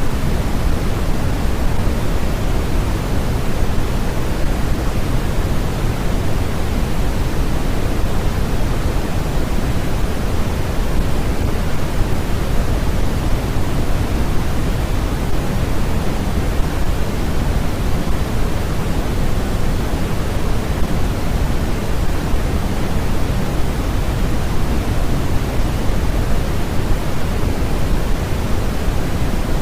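A steady, unchanging noise track played as sleep and study white noise: an even, constant hiss with no events, weighted toward the low end, so it sounds deeper than a flat hiss.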